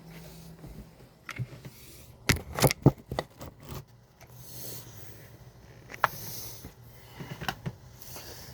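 Cookware being handled on a stovetop: scattered sharp clicks and knocks, a quick cluster of them a little over two seconds in, with scraping and soft hiss between.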